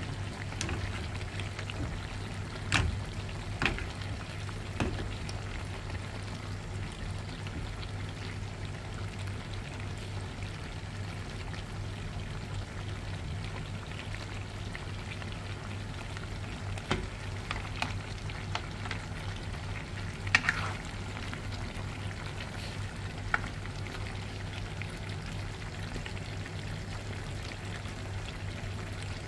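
Igado, Filipino pork and liver, sizzling steadily as it fries in a pan, over a constant low hum. A few sharp clicks stand out, two or three in the first five seconds, a cluster around the middle and one near the end.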